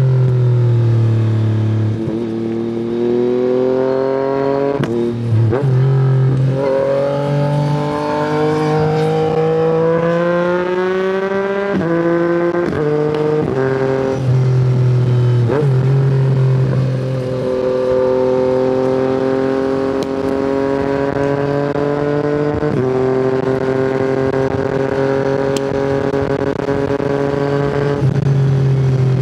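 Yamaha MT-09's inline-three engine through an Akrapovic exhaust under way, revving up through the gears with the pitch climbing and dropping back at each shift. Later it holds a steadier pitch for a long stretch before a few more shifts near the end.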